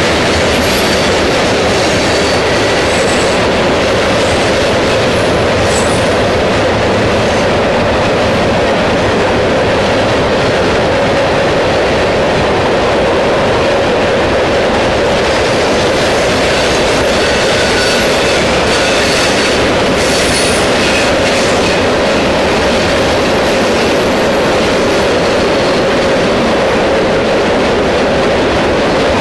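Freight train rolling past close by: a steady loud rumble and clatter of wheels over the rails, with faint high wheel squeals now and then.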